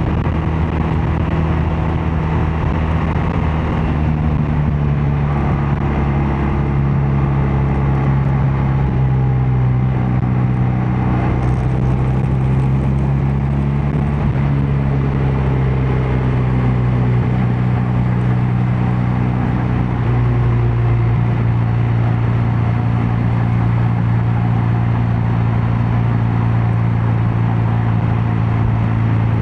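BMW R12 nineT's air/oil-cooled boxer twin running steadily under way, its exhaust note holding a low, even pitch that drifts slightly and steps down a little about two-thirds of the way through.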